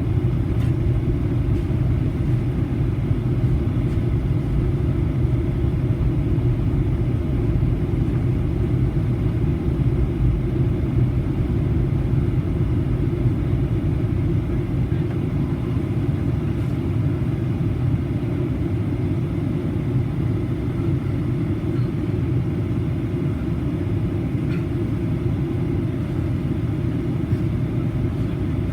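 Steady cabin rumble of a Boeing 737-800 in flight, heard from inside the passenger cabin: engine and airflow noise, deep and even, easing slightly in its lowest notes about halfway through.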